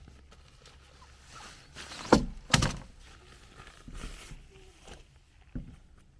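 Two loud thumps about half a second apart, with lighter knocks and scuffs around them.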